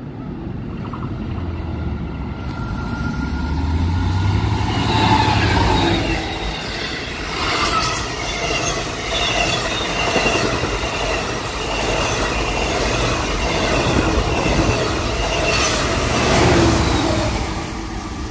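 Long Island Rail Road diesel passenger train, DM30AC locomotives hauling C3 bilevel coaches, passing at speed. A low engine rumble grows over the first few seconds as it approaches, then the wheels run loudly on the rails with steady high squealing tones and a few clicks.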